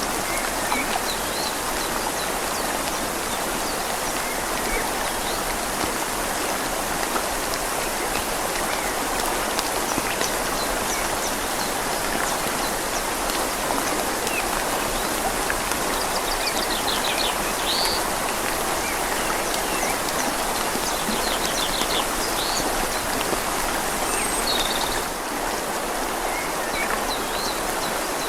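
Steady rain falling on leaves and a river flowing, making an even wash of noise. A few faint bird chirps and quick trills come through in the middle.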